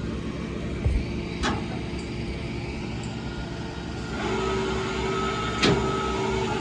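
Tow truck engine idling while its winch is run: about four seconds in a steady mechanical whine starts as the winch pulls. A low thump and two sharp metallic clanks of chain or hook ring out, one at about a second and a half and one near the end.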